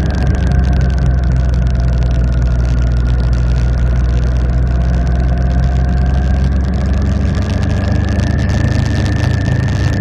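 Motorcycle engine running steadily while riding. Its pitch eases down a little, then climbs back up after about seven seconds.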